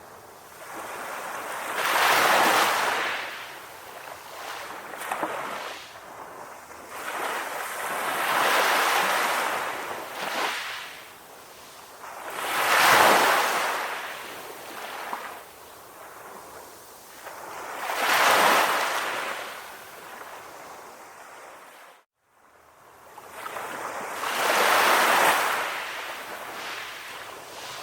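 Ocean waves breaking and washing up on a beach. About five waves swell up and ebb away, each surge of surf lasting a few seconds, with a brief dropout to silence about three-quarters of the way through.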